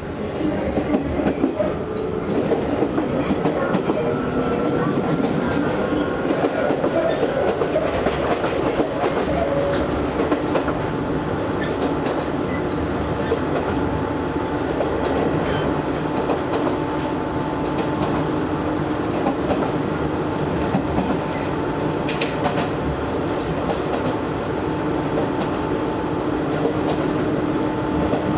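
Izu Hakone Railway 3000 series electric train heard from inside the car: its resistance-controlled traction motors and gears whine up in pitch as the train accelerates through the first several seconds, then hold a steady whine at running speed. The wheels rumble and clack over rail joints throughout.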